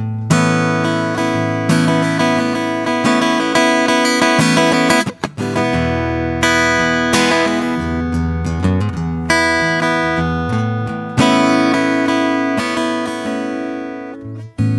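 Acoustic guitar played in an improvised, relaxed style, with strummed chords ringing out and a brief pause about five seconds in.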